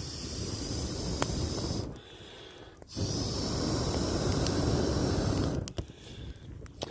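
A campfire with meat cooking on a hot rock, hissing steadily with a few sharp crackles. The hiss drops away abruptly about two seconds in, comes back a second later, and falls off again near the end.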